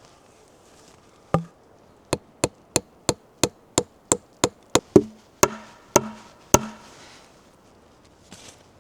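A hand tool striking wood in a quick series of about fourteen sharp blows at roughly three a second. The last few are the loudest, each with a short ring after it.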